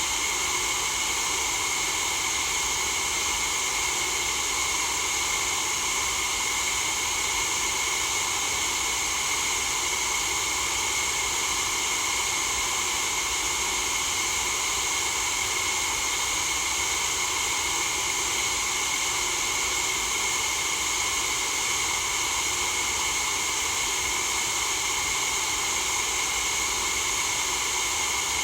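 Steady white noise for sleep: an unchanging hiss, brightest in the treble, with no breaks or changes.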